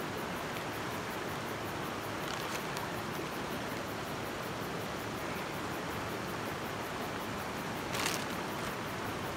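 Creek water running steadily, an even rushing hiss, with a few faint clicks and a slightly louder click about eight seconds in.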